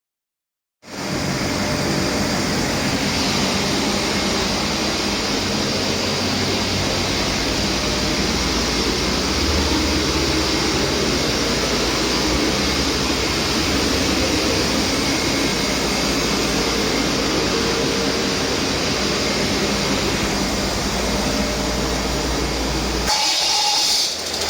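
Cummins ISB 6.7-litre inline-six turbodiesel running steadily during a test run. The sound starts abruptly about a second in and changes briefly near the end.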